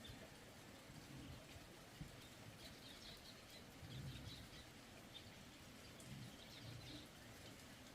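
Near silence: faint outdoor ambience with soft, scattered high chirps and a few dull low knocks.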